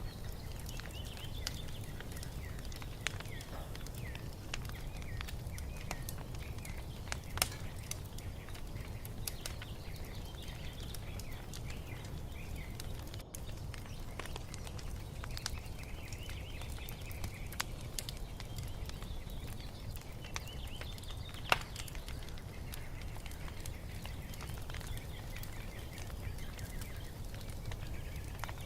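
Wood fire crackling with scattered sharp pops over a low steady rumble, two pops louder than the rest, about a quarter and three-quarters of the way through. Small birds chirp on and off throughout.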